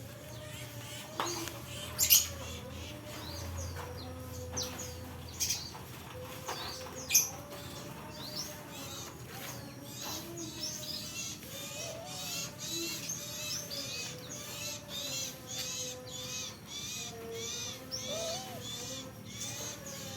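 Bird calls: many short, high arching chirps, sparse at first and then repeating rapidly several times a second from about halfway through, with a few sharp clicks early on.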